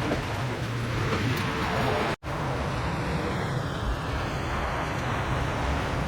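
Steady mechanical rumble and noise, cut off for an instant about two seconds in.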